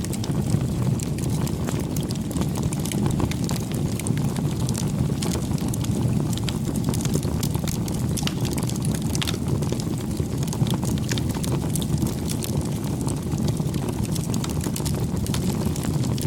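Wood campfire crackling, with frequent small sharp pops and snaps over a steady low rumble.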